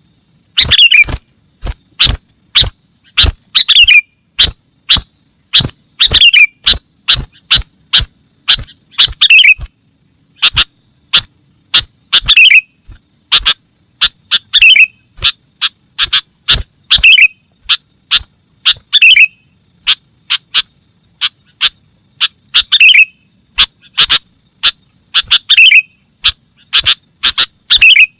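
Sooty-headed bulbul calls played as a bird-trapping lure: loud, sharp chirps about twice a second, with a short downward-sliding whistle every two to three seconds, over a steady high insect-like buzz.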